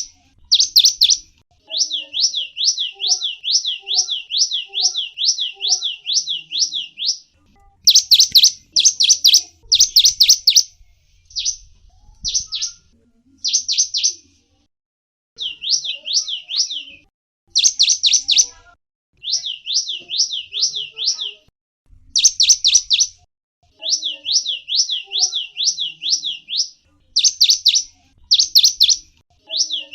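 Small songbird chattering in long runs of rapid, high down-slurred notes, about six a second, in phrases of a few seconds with short pauses. Louder, harsher bursts come about eight, ten, eighteen and twenty-two seconds in.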